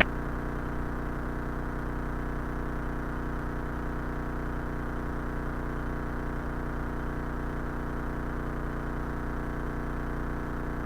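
Cessna 172's piston engine running steadily: an even, unchanging drone.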